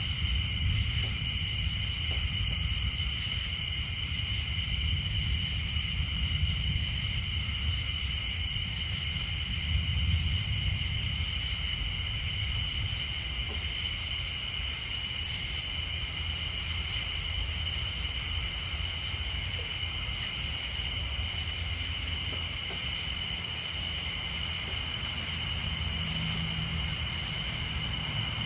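Steady high-pitched night chorus of tree frogs and insects, ringing in two even pitches, with a continuous low rumble underneath.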